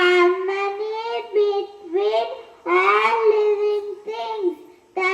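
A young child singing in a high voice, in short phrases with held, gliding notes and brief pauses between them.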